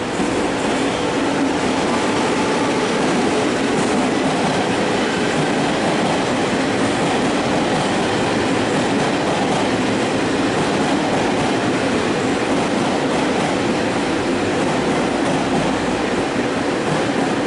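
Trains moving through a railway station: a steady, loud rolling rumble of wheels on rail, with a faint steady hum running under it.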